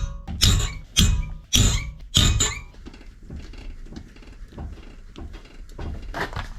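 Five sharp knocks about half a second apart, followed by quieter light clatter.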